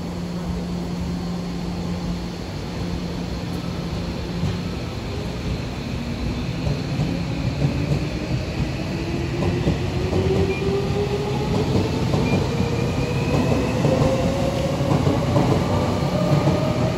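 Electric commuter train pulling out: a steady motor hum for the first few seconds gives way to a whine that climbs steadily in pitch as the train accelerates, over rumbling wheel and rail noise that grows louder toward the end.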